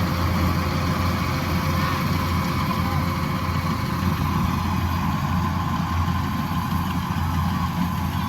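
Combine harvester engine running at a steady speed: a low hum with a faint, steady whine above it.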